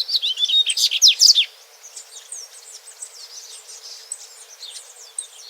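Double-collared seedeater (coleiro) singing: a loud run of quick, high chirping notes for about the first second and a half, then softer twittering goes on.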